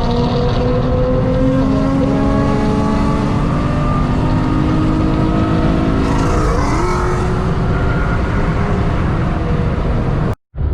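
Nissan 350Z's V6 engine pulling under load, its pitch climbing slowly and steadily over heavy road and wind noise, with a gear change about six and a half seconds in. The sound cuts off abruptly near the end.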